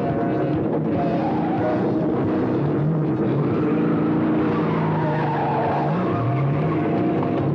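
Car engine revving hard, its pitch rising and falling several times.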